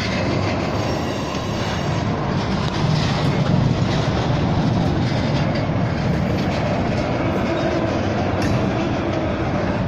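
Railroad tank cars of a freight train rolling past close by: a steady rumble of steel wheels on the rails with occasional clicks.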